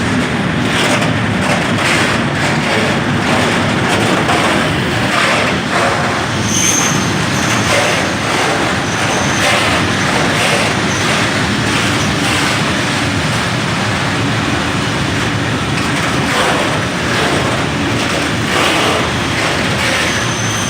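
Train running on the rails, a loud, steady rumble and rattle, with brief high wheel squeals about six and a half seconds in and again a few seconds later.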